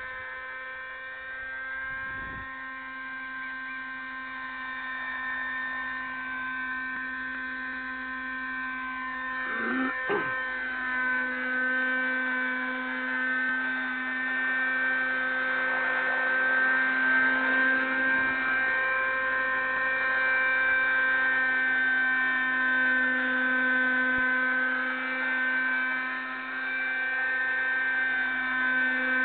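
Raptor 30 model helicopter's small nitro glow engine running at a steady high pitch with a whirring drone. It grows louder about halfway through, with a couple of brief low knocks.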